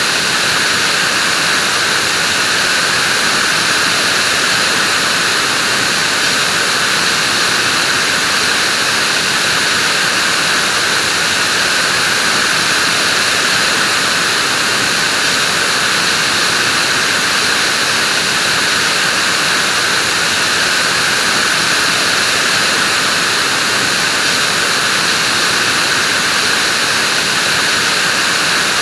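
Vacuum cleaner running steadily, a constant whooshing hum of motor and airflow with no change in pitch or level.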